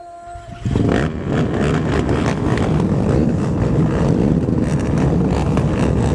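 Quad (ATV) engines running loud and steady, with a dense rushing noise over them, cutting in suddenly just under a second in.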